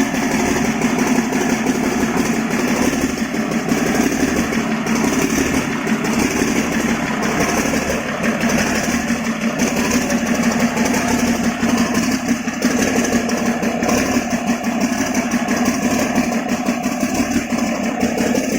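Cummins KTA19-G3 inline six-cylinder turbocharged diesel engine running steadily at an even speed.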